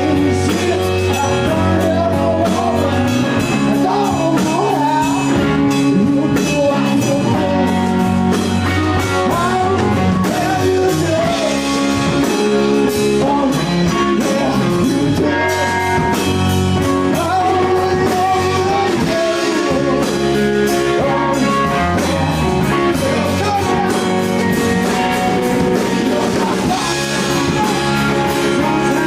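Rock band playing with electric guitar and a singing voice over a dense, steady backing.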